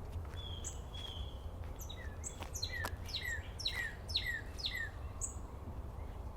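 Small birds calling in woodland: short high chirps, then a run of about five quick descending notes midway through. A steady low rumble lies underneath.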